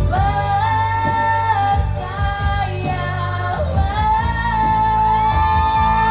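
A woman singing an Indonesian pop ballad over a backing track, drawing out long held notes in a few sustained phrases.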